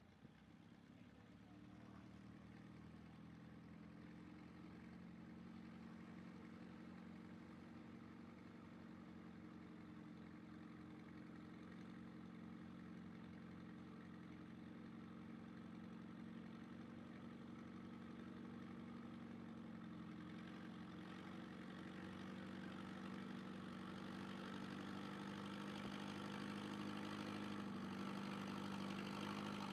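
A pulling vehicle's engine running at a steady pitch, growing gradually louder.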